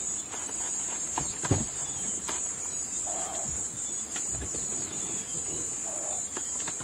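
Crickets chirping in a steady, high-pitched chorus, with a few faint knocks; the chorus cuts off abruptly near the end.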